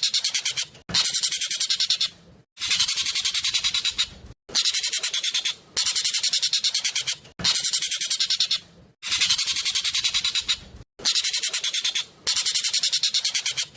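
Jovin (Asian glossy starling) calling loudly and fast: bursts of rapid, shrill, densely packed notes, each about a second and a half long, repeated with short pauses between.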